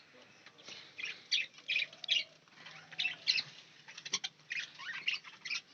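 Small caged birds, finches and budgies, chirping: many short, high calls scattered through.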